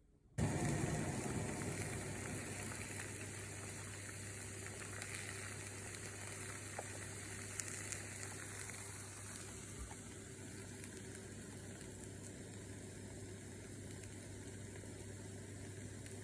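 Food dropped into hot oil in a frying pan: a sudden loud sizzle about half a second in that settles into a steady sizzle with occasional small pops.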